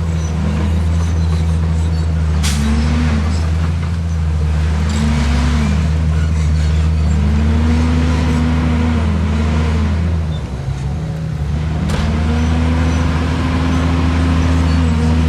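Heavy earthmoving machine's diesel engine running continuously, its revs rising and falling in repeated swells. There are two sharp knocks, about two and a half seconds in and near twelve seconds.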